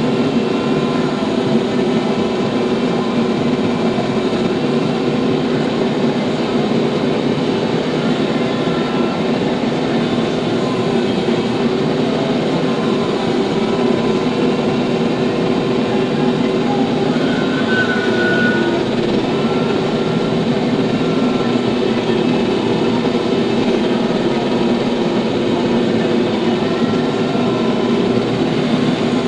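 TYM T574 tractor's diesel engine running steadily at constant speed, a continuous mechanical drone with no change in pace.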